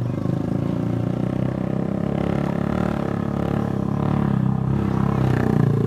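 Toyota Innova Zenix engine running at high revs under heavy load as the car labours up a steep, loose dirt slope.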